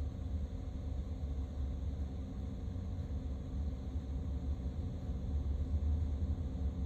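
Steady low rumble of a vehicle in motion, road and engine noise without any sudden events.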